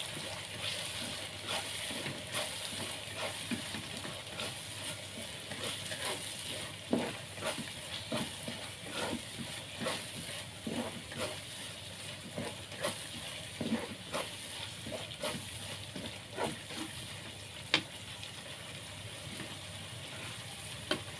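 Blended spice paste with lime leaves, bay leaves and lemongrass sizzling as it fries in oil in a pan, with a utensil scraping and tapping against the pan as it is stirred. The stirring stops a few seconds before the end, leaving the steady sizzle.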